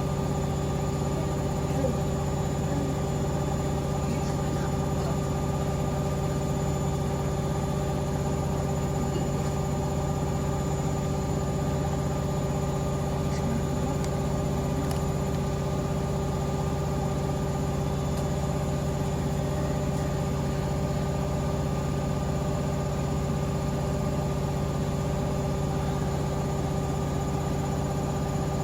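Hoover Link washing machine in its final spin at 1000 rpm: the drum turns at full speed with a steady hum and whine that holds unchanged.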